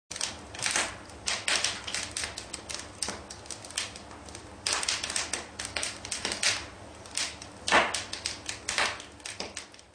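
Wood fire crackling in an open fireplace: irregular snaps and pops, some with a short hiss, over a low steady rush of flame.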